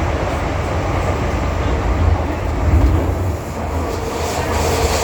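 Interior running noise of an MTR M-Train metro car moving at speed in a tunnel: a steady low rumble of wheels on rail. A faint steady hum joins in near the end.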